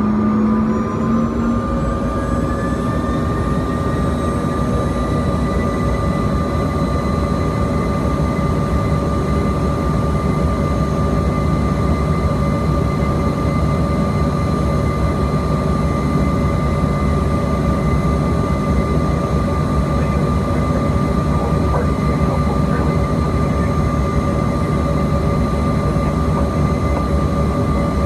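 Bombardier CRJ-200's twin rear-mounted General Electric CF34 turbofan engines heard from inside the cabin: a steady rush with several whining tones that rise in pitch over the first couple of seconds and then hold steady.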